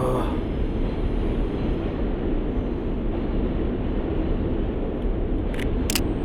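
Steady low rumble of snowy city street noise, with two quick Sony A7III shutter clicks near the end as photos are taken.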